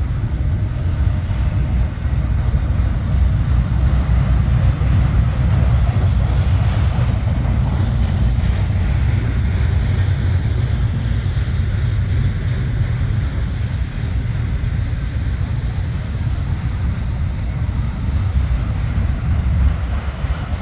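Intermodal freight train's cars rolling past with a steady low rumble.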